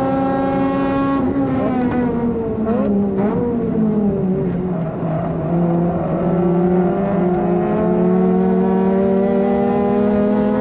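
Honda Civic FD2's four-cylinder engine heard from inside the car at high revs, then the revs fall as it lifts and slows for a corner, with a short blip about three seconds in, before climbing steadily again as it accelerates out.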